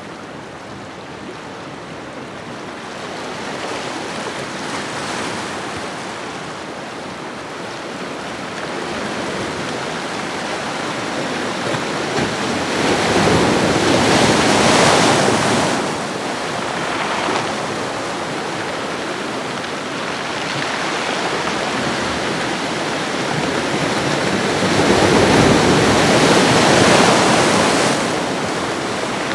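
Ocean waves washing onto a shoreline: a continuous rush of surf that swells into two louder breaking waves, one about halfway through and one near the end.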